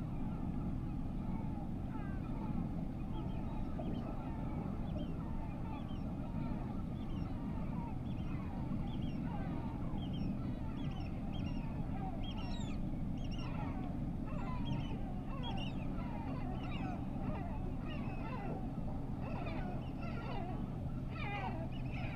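Many birds giving short falling calls, more of them toward the end, over a steady low hum.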